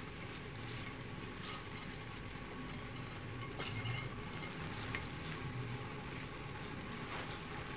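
Steady sizzling from a hot stainless steel pot on the stove, with soft rustles and light taps as handfuls of cabbage leaves are dropped in.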